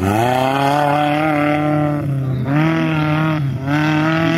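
Off-road competition 4x4's engine revving hard under load in three sustained pulls. The pitch drops briefly about two seconds in and again near the end, then climbs back each time as the throttle is reapplied.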